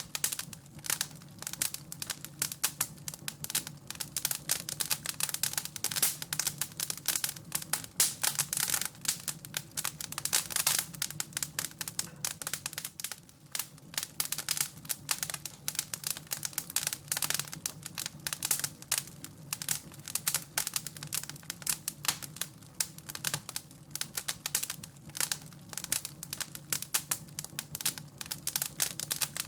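Wood fire crackling and popping in a fireplace: a dense, irregular run of small pops and snaps over a steady low rumble.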